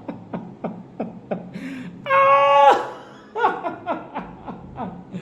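A man laughing in quick short chuckles, about three a second, that break into a loud, high-pitched held laugh about two seconds in, then go back to chuckling.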